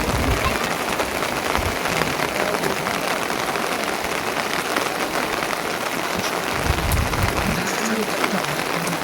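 Steady heavy rain, an even dense hiss of falling drops, with faint voices underneath and a brief low rumble about seven seconds in.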